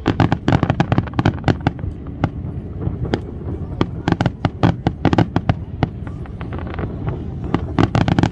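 Fireworks display: a dense, rapid barrage of sharp cracks and bangs, several a second, over a steady low rumble.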